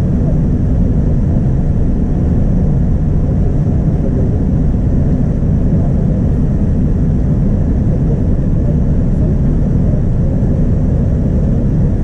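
Steady low rumble inside the cabin of a Boeing 787-9 Dreamliner: its Rolls-Royce Trent 1000 engines and the airflow, heard from a seat over the wing, with no distinct events.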